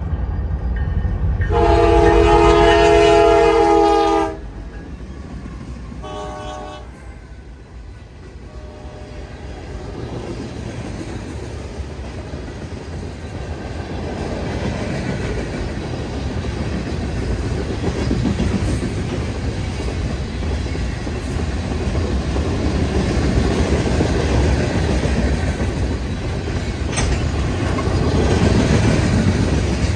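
Freight train locomotive horn sounding one loud blast of about three seconds and, a couple of seconds later, a shorter, fainter one. Then the train rolls past with a rumble that grows louder and stays loud.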